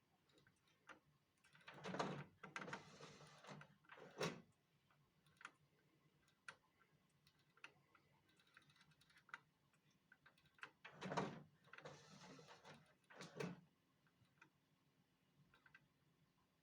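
Faint mechanical clicks and short scraping or rustling bursts in two similar clusters about nine seconds apart, with scattered single ticks between them.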